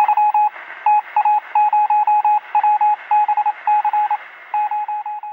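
A run of electronic beeps at one steady pitch, short and long beeps in groups with gaps between them, keyed like a Morse code signal over a light radio-style hiss. The beeps stop near the end.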